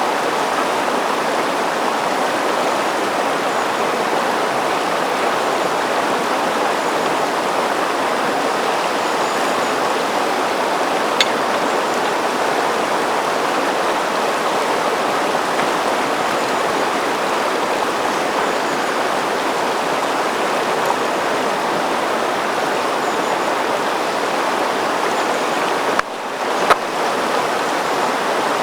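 River water rushing steadily over rocks, with a single sharp click about eleven seconds in and another near the end.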